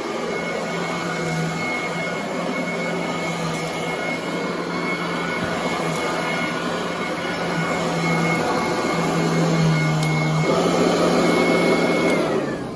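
Commercial vacuum cleaner running steadily on carpet with a high motor whine, then switched off near the end, its whine falling in pitch as the motor winds down.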